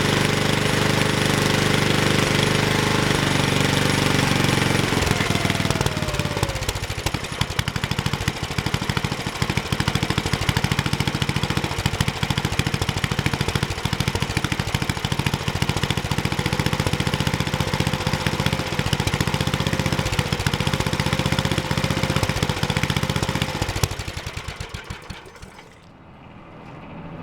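Briggs & Stratton 8 HP I/C single-cylinder engine running fast, then throttled down about five seconds in, its pitch falling to a slow idle with each firing stroke distinct. Near the end it is shut off and coasts to a stop, the beats slowing and fading.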